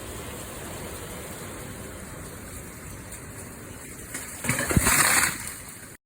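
Steady rushing noise, with a louder rush of about a second about four and a half seconds in, cutting off suddenly just before the end.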